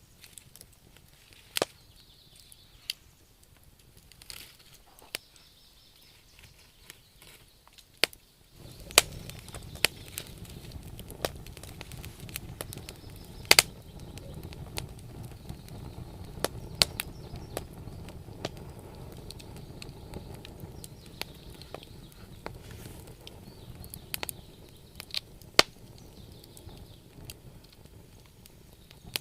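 Wood campfire crackling, with sharp pops and snaps every second or two. From about eight seconds in a low rushing sound joins and fades away again near the end.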